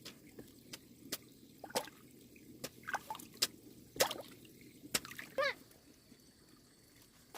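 Water dripping and plopping: a dozen or so irregular single drops, some with a quick rising plink, spread unevenly.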